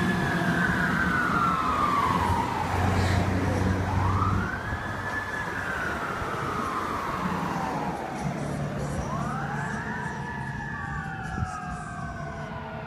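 Fire engine siren wailing: each cycle rises quickly and then falls slowly, about every four seconds. It gets quieter about four seconds in as the engine moves away.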